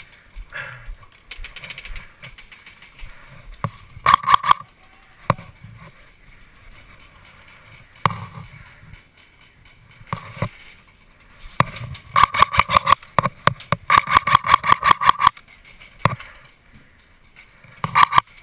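Airsoft electric rifles firing bursts of rapid shots, the longest runs near the middle, with single shots between the bursts.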